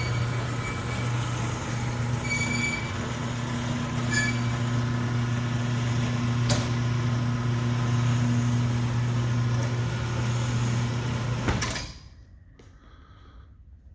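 Commercial garage door travelling on its motor operator: a steady motor hum with light squeaks and clicks from the rollers and track, stopping abruptly about twelve seconds in.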